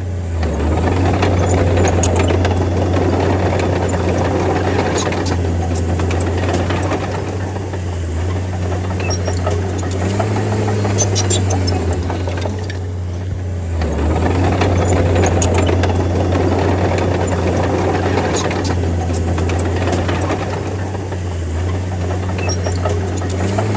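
Crawler bulldozer's diesel engine running steadily with a constant low hum, its load rising and easing every few seconds as the blade pushes soil. Scattered sharp metallic clinks over it.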